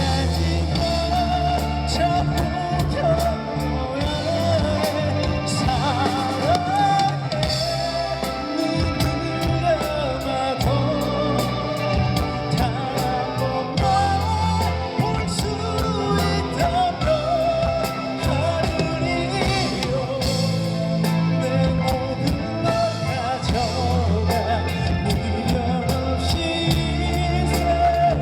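Live rock band playing a Korean rock ballad: drum kit, bass and guitars under a bending lead melody line.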